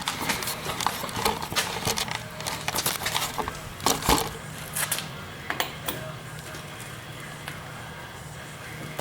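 Scattered clicks and light knocks from hands working a 6-volt battery and its cable leads, over a faint steady low hum; the loudest knocks come about four and five and a half seconds in.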